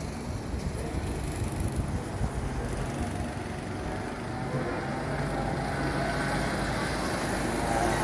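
Go-kart engine running, with its pitch climbing near the end as it speeds up.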